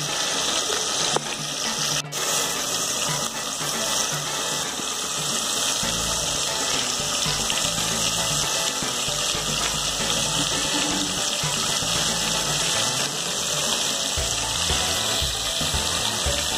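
Chicken pieces and onions sizzling in hot oil in an aluminium pressure cooker, a steady loud hiss, with a low irregular rumble joining about six seconds in.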